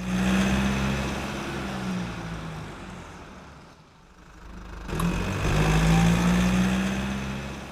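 A motor vehicle's engine running in two swells: loud at first and fading away over about four seconds, then rising again after a sharp click about five seconds in and fading once more.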